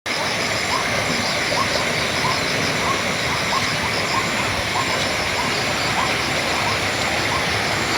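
River water babbling steadily, with birds calling over it: one repeats a short rising note over and over, and higher, faster chirps run on above.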